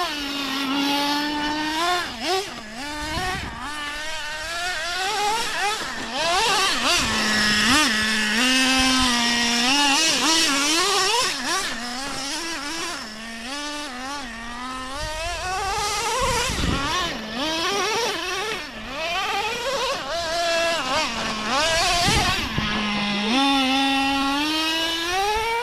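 Small glow-fuel engine of a nitro RC truck, revving up and down repeatedly as it is driven, with a buzzy pitch that rises and falls over and over.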